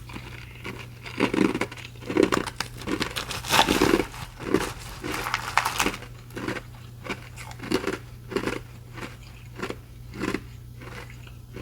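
Ice being crunched and chewed close to the microphone: a dense run of crunches for the first several seconds, then slower, evenly spaced single chews.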